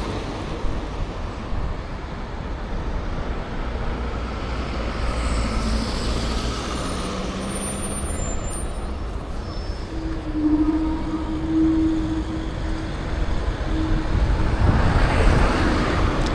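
City road traffic heard from a bicycle: a steady rumble of vehicles running nearby, with a humming engine tone in the middle and a louder vehicle passing near the end.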